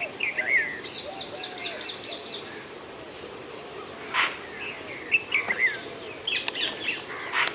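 Parrots calling while feeding: many short chirps and squawks, with harsh screeches about four seconds in and again near the end.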